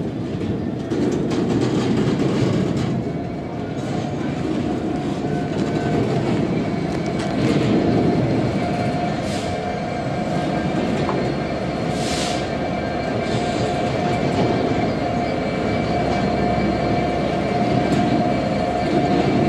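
Class 66 diesel freight locomotive moving slowly over pointwork, its two-stroke V12 engine running steadily with a held whine, wheels clicking over the rail joints. A couple of short hisses come about nine and twelve seconds in.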